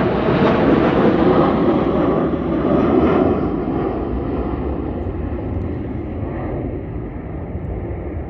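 Firefighting plane flying past, its engine noise loud for the first few seconds, then fading and growing duller as it moves away.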